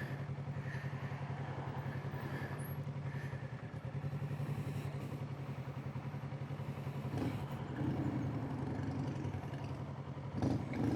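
Kawasaki Z650's parallel-twin engine running steadily at a cruise, under a hiss of wind noise. There is a brief knock near the end.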